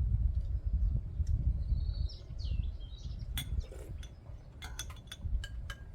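Small birds chirping briefly about two seconds in, over a low rumble; in the second half a run of light sharp clinks, a spoon tapping a bowl as the fresh soft tofu is eaten.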